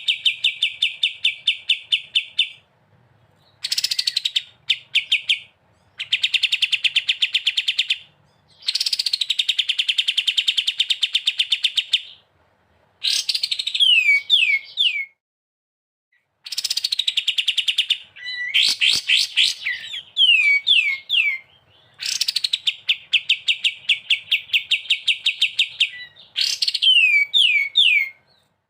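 Songbird singing: long rapid trills, each opening with a short falling note and separated by brief pauses, alternating with runs of three or four quick down-slurred whistles.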